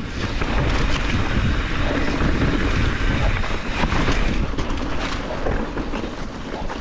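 Wind rushing across the microphone over the rumble and rattle of a mountain bike rolling fast down a rocky trail, with scattered knocks from the tyres and frame hitting rock.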